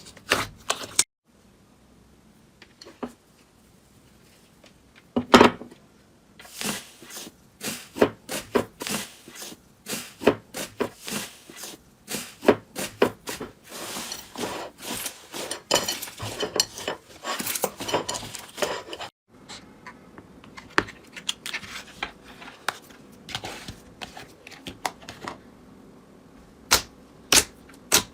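Slime being handled, giving irregular sharp pops and crackling clicks. After a few seconds of near quiet the clicks come in dense quick runs, then thin out after a sudden break.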